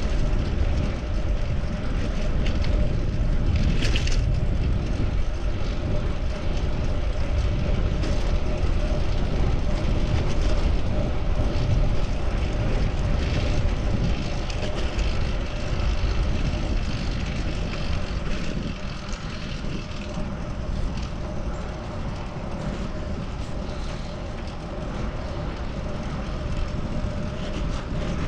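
Wind buffeting the microphone of a rider on a moving bicycle, mixed with city traffic noise and a steady hum underneath. It eases a little about two-thirds of the way through.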